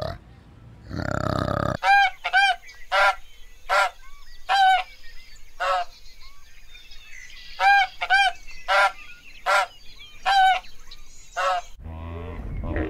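White domestic geese honking: about a dozen loud, separate honks, some coming in quick pairs.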